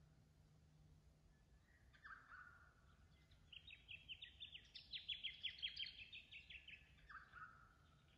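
Wild birds calling: a short call about two seconds in and another near the end, and in between a quick run of sharp repeated notes, about six a second, that swells and then fades.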